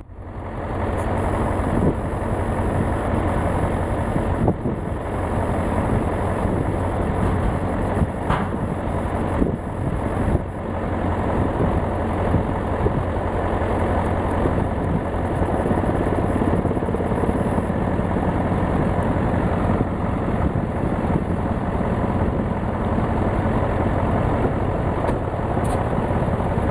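Helicopter running: a loud, steady engine and rotor noise with a fast, even pulsing.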